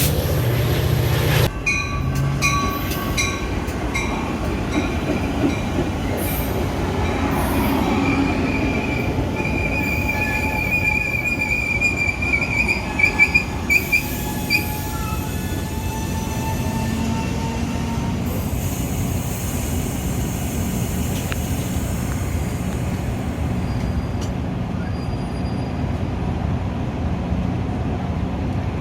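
Metra commuter train running on the rails, with a steady low rumble and a few clicks early on. The wheels squeal in a high thin tone for several seconds around the middle.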